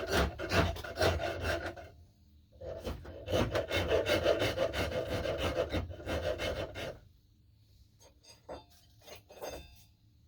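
Wooden axe-handle knob being shaped by hand with a rasp: two runs of quick scraping strokes, the second run longer, then a few scattered light scrapes near the end.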